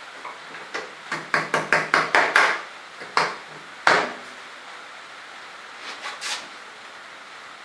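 A quick run of about eight sharp knocks, then two single knocks and a couple of faint ones near the end: wood and metal being knocked about while a template board and fence are shifted into place on a table saw.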